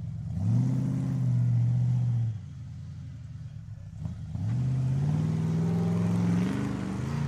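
Large V8 engine of a monster truck revving up and holding high revs twice: a rise to a steady pitch for about two seconds, a drop back for about two seconds, then a second slower climb that holds to the end.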